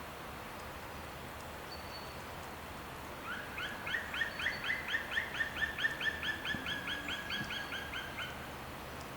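A bird calling in a quick, even run of about two dozen notes, about five a second. It starts about three seconds in and lasts about five seconds, over a steady outdoor hiss.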